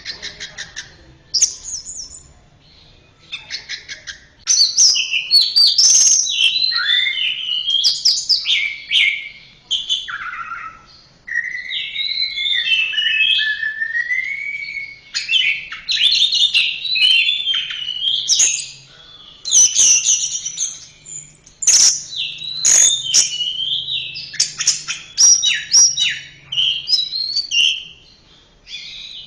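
Orange-headed thrush (anis merah) singing: long runs of rapid, varied whistled and warbled phrases with sharp clicks among them, broken by a few short pauses.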